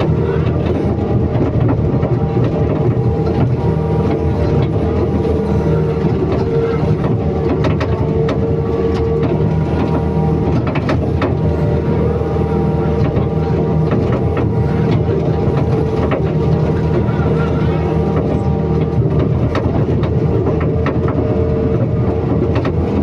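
Excavator's diesel engine running steadily under load, with scattered short knocks and clanks from the machine.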